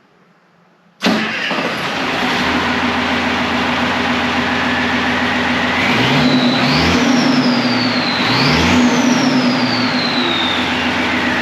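Deuce-and-a-half truck's diesel engine with a Schwitzer 'Whistler' turbo, running without an air filter. It comes in abruptly about a second in, then is revved twice. Each rev brings a high turbo whistle that climbs sharply and then slowly falls.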